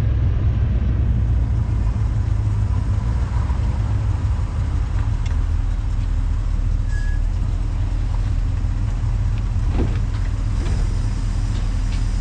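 1968 Buick Skylark's engine running steadily with an even low rumble, with a few light clicks near the end.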